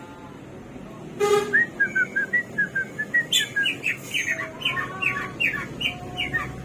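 Samyong (garugiwa) songbird singing: after a faint start, a sharp click about a second in, then a fast string of high chirps that turns into a run of quick downward-slurred notes, about four a second.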